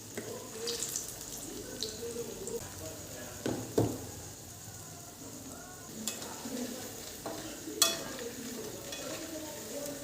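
Food sizzling in a pan while it is stirred, with scraping and two sharp knocks of the utensil against the pan, about four and eight seconds in.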